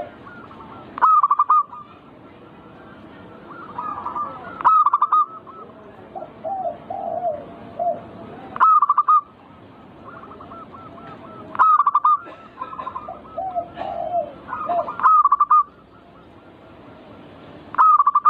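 Zebra doves (perkutut) cooing. A loud short run of rapid coos comes every three to four seconds, with softer, lower cooing phrases in between.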